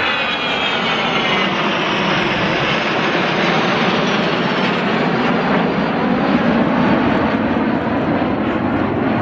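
Jet trainers of the Patrulla Águila, CASA C-101 Aviojets, flying past. Their high engine whine falls in pitch over the first few seconds, then settles into steady, loud jet noise.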